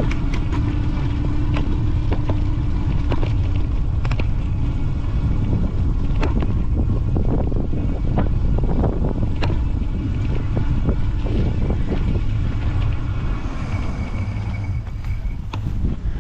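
Wind buffeting the microphone during an e-bike ride uphill, with scattered clicks and knocks from the bike.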